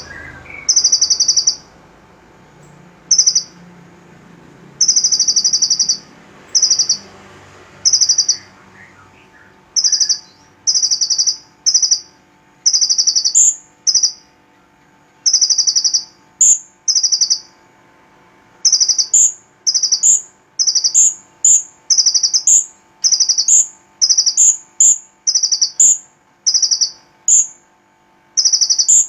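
Purple-throated sunbird (kolibri ninja) song: short, high, trilled chirp phrases repeated over and over. They come faster and closer together about halfway through, with extra high pips added on top.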